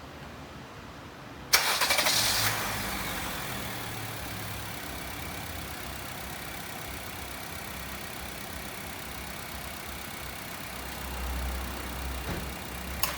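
Honda WR-V car engine cranked by the starter and catching about a second and a half in, running briefly higher, then settling to a steady idle. A sharp click sounds near the end.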